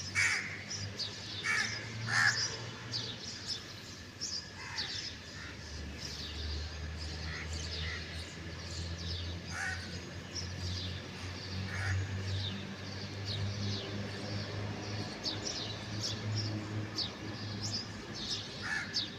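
Crows cawing, a short call every few seconds, over many high chirps from small birds and a steady low hum.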